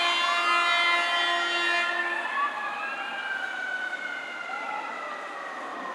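Fire apparatus responding: horn blasts over wailing sirens. The horn stops about two seconds in, and the siren tones then glide downward and fade as the trucks pull away.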